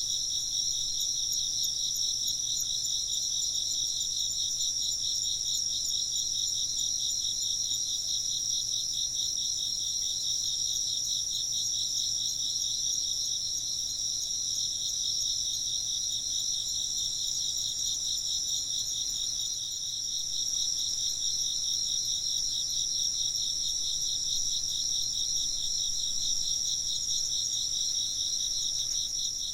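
A chorus of insects trilling steadily in two high pitches, the lower one in fast even pulses; no wind chime sounds in this stretch.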